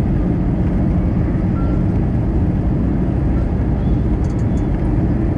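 Steady cabin noise inside an Airbus A320-214: the even low rumble of its CFM56 engines and airflow, heard from a seat just ahead of the wing.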